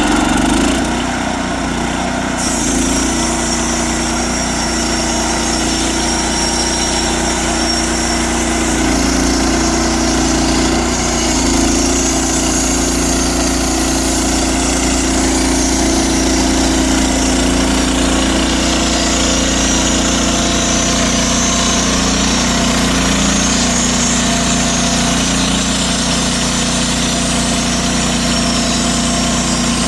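Portable band sawmill running at full revs, its small gasoline engine driving the band blade through an oak log as it cuts a thin slab. A loud, steady machine drone that starts suddenly and holds throughout.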